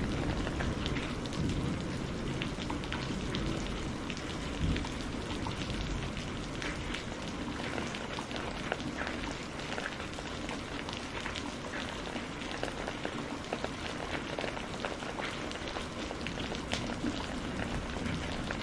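Steady rain with many individual drops ticking on a surface. A low thunder rumble dies away over the first few seconds.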